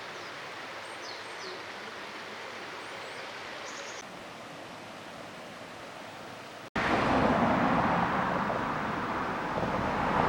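Steady rush of flowing stream water, with a few faint bird chirps in the first seconds. About two-thirds of the way in, an abrupt cut to a louder, fuller rush of water.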